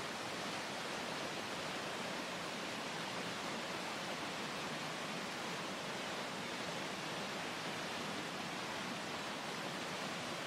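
Creek water pouring over rapids and a waterfall: a steady, unbroken roar.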